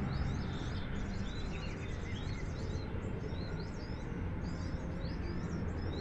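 Small birds chirping, many short high notes repeating over and over, above a steady low rumble.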